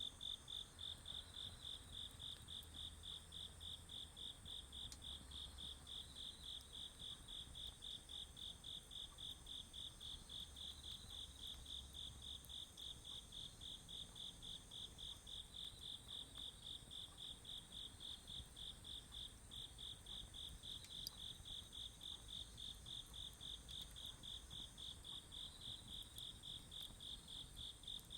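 Autumn crickets chirping in a steady rhythm, about three chirps a second, over a continuous high-pitched trill from other insects.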